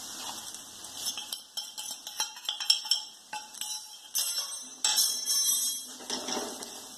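Shallots, curry leaves and spices frying in coconut oil in a metal kadai, crackling and popping, while a wooden spatula scrapes and stirs them against the pan. There is a denser burst of spattering a little past the middle as chilli powder is stirred into the browned onions.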